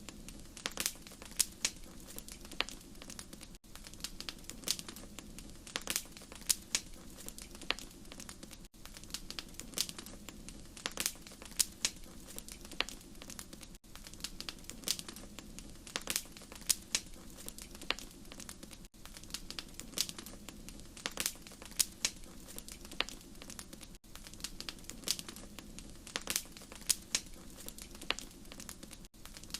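Wood fire crackling in a fireplace: irregular sharp pops and snaps over a soft steady rush of burning, with a very brief dip in the sound about every five seconds.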